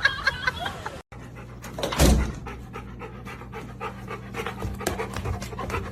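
A dog panting, over a low steady hum, with a louder thump about two seconds in.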